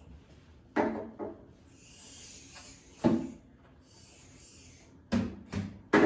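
About six short knocks and thumps with rubbing in between, the last three coming close together near the end.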